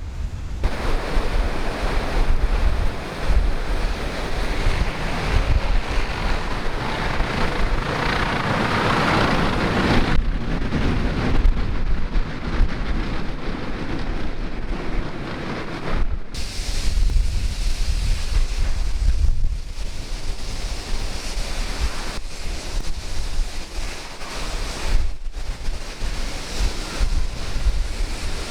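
Wind buffeting the microphone, with low gusty rumbling over a steady rush of sea and wind noise. The rush breaks off abruptly a few times.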